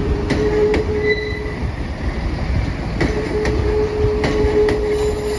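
Two coupled Class 158 diesel multiple units pulling out past the platform: a low diesel rumble, wheels clicking over rail joints in spaced pairs, and a steady high wheel squeal that comes twice.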